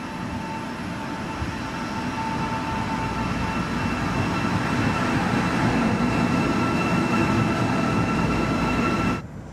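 HEMU-430X high-speed electric train passing close by: a rushing rumble of wheels and air that builds over the first few seconds and then holds, with a steady whine above it. It cuts off abruptly near the end.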